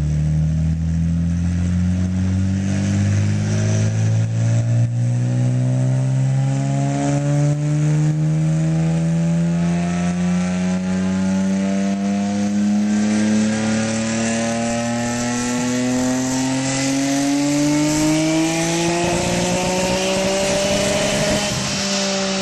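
Nissan Skyline GT-R's twin-turbo straight-six pulling under load on an all-wheel-drive chassis dyno, its pitch rising slowly and steadily for about twenty seconds. Near the top of the pull it turns ragged and stuttering, the misfire the run is labelled with, and then it drops away as the throttle closes near the end.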